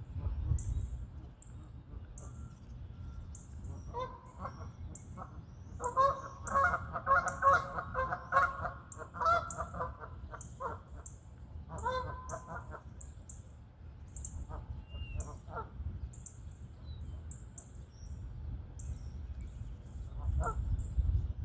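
Geese honking, a burst of overlapping calls loudest a few seconds in, then a few scattered honks later. A small bird chirps repeatedly in short high notes throughout, over a steady low rumble.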